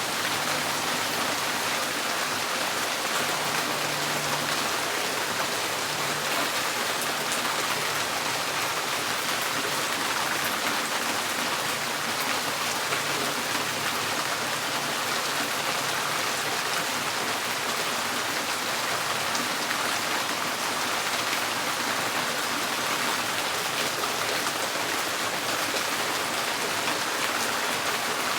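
Steady rain falling on a tin porch roof: a dense, even hiss of drops that holds at one level throughout.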